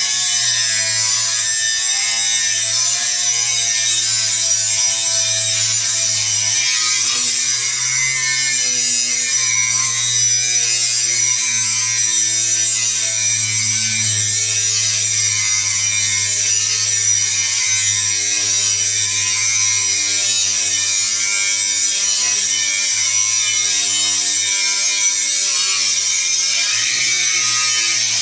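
Angle grinder grinding steel without a break: a loud, steady, hissing grind over the motor's hum, the motor's pitch wavering slightly.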